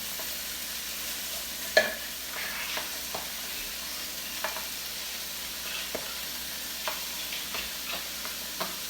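Food sizzling steadily in hot oil in a pan, with a scattering of short knocks and clicks from a cooking utensil against the pan. The loudest knock comes a little under two seconds in.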